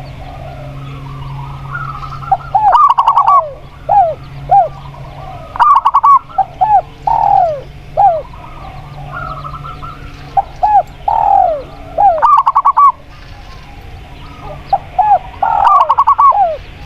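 Spotted dove and zebra dove cooing in repeated phrases of short, bending notes, about six phrases a few seconds apart, over a low steady hum.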